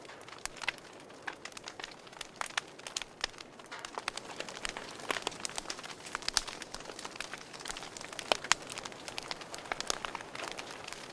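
Wood fire in a fireplace crackling: irregular sharp pops and snaps over a soft hiss of burning.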